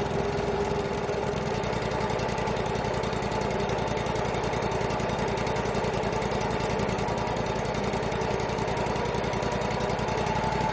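Engine of a Wood-Mizer LT35 portable bandsaw mill running steadily at an even pitch.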